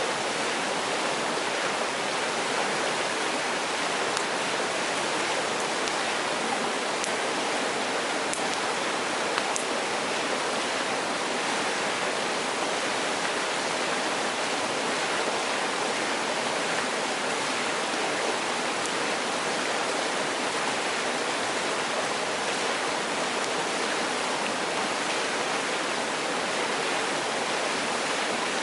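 Mountain stream rushing steadily over rocks, an even water noise, with a few faint sharp clicks in the first ten seconds.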